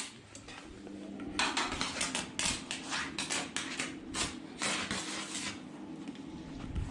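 Irregular clattering and clinking of small hard objects, with a faint steady low hum underneath.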